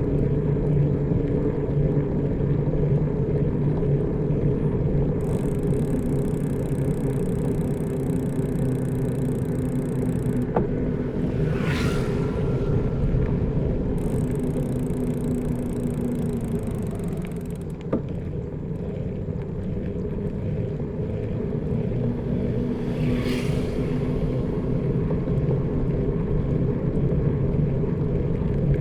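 Steady low rumble of a motor vehicle's engine running at an even speed. It eases off briefly a little past halfway, then picks up again. Two short high-pitched sounds cut through it, once about a third of the way in and again near the end.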